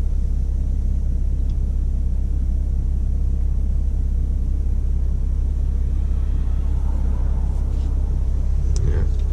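BMW M140i's straight-six engine idling, heard from inside the cabin as a steady low rumble.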